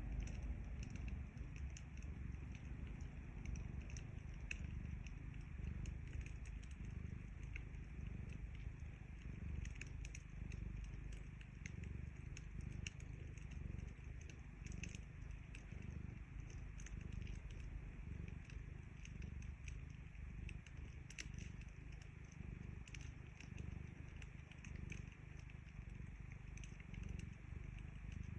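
A cat purring steadily in a low rumble, close to the microphone, while a wood fire crackles with scattered sharp pops.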